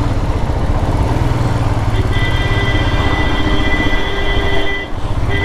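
Royal Enfield Himalayan's single-cylinder engine running at steady speed on the highway, under heavy wind and road noise. About two seconds in, a steady high-pitched tone sounds for about three seconds and returns briefly near the end.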